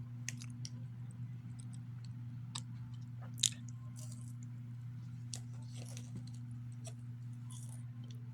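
A person chewing a chewy granola bar with peanuts and almonds: scattered soft mouth clicks and small crunches, one sharper about three and a half seconds in, over a steady low hum.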